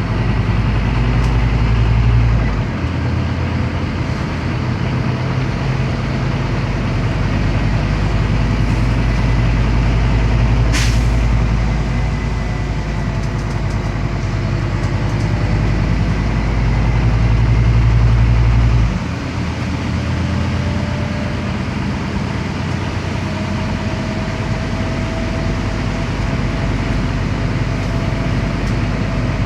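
Scania CN270UB city bus's diesel engine pulling the bus along, heard from on board, with the engine note dropping back at about three seconds and again near nineteen seconds. A brief hiss about eleven seconds in.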